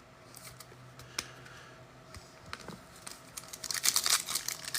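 A few light clicks of trading cards being handled, then, about three and a half seconds in, a trading-card pack wrapper crinkling loudly as it is torn open.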